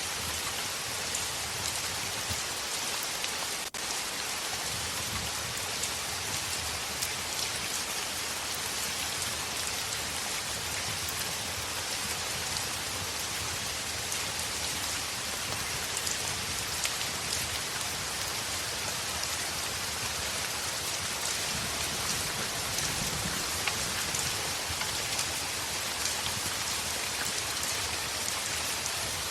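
Heavy rain falling steadily on a window, an even hiss dotted with small sharp drop ticks, with a brief dip about four seconds in.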